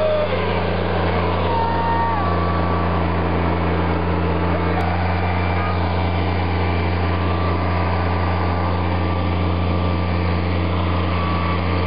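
Backhoe's diesel engine running steadily, a constant low drone.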